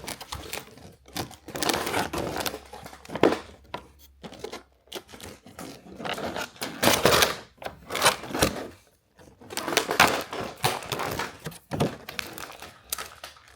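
Tape being picked at and peeled off a figure's packaging, with plastic crinkling and small clicks and knocks in irregular bursts.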